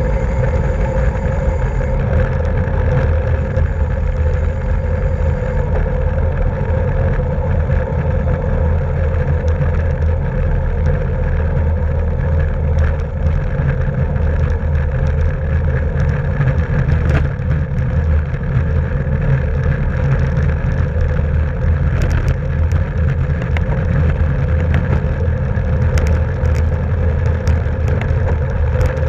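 Steady rush of wind buffeting the microphone of a camera riding on a racing bicycle at speed, with tyre and drivetrain noise underneath. A few sharp clicks come in near the end.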